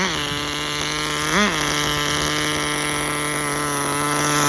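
Tamiya TGS-R nitro RC car's small glow-fuel engine idling steadily, blipped up briefly once about a second and a half in.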